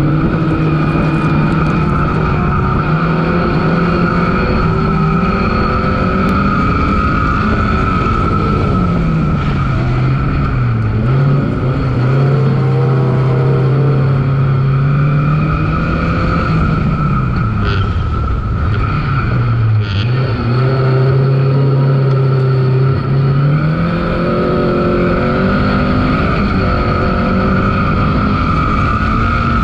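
Onboard sound of a competition car's engine driven hard on a dirt track. Its note holds steady under power, drops twice as the car slows for corners and climbs again. A steady high whine sits above it throughout, and a few short clicks come about two-thirds of the way in.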